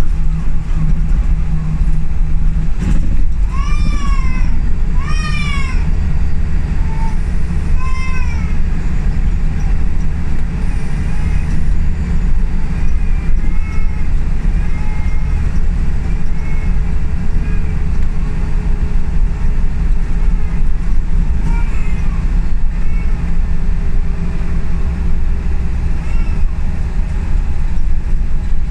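Inside a Scania L94UB single-decker bus under way: steady engine and road rumble. A few short, high, arching squeals cut through it, the loudest about four, five and eight seconds in, with fainter ones later.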